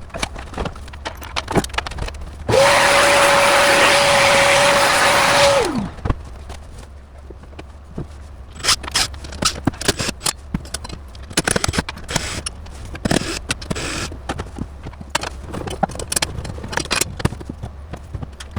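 A small motorised tool runs for about three seconds with a steady whine and hiss, its pitch dropping as it winds down. Scattered clicks and clatter of hardware being handled follow.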